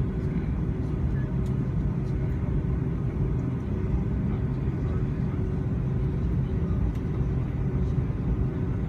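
Steady rumble and hum of a Boeing 757-200's engines and airframe heard from inside the passenger cabin, with the engines held at a constant setting.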